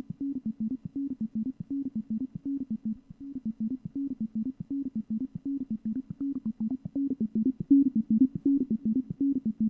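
Waldorf Iridium synthesizer's step sequencer playing a fast, even run of short, clipped notes that hop between two or three low pitches, its gate length shortened to make the pattern more rhythmic. A faint falling sweep is heard about six seconds in.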